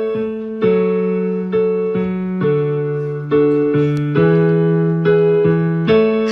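Keyboard music: a piano-like instrument playing a steady run of chords, a new chord struck about twice a second and left to ring.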